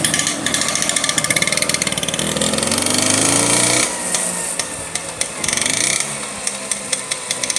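1976 Vespa Super's 150 cc two-stroke engine running as the scooter is ridden, its pitch rising under acceleration, dropping sharply about four seconds in, then climbing again.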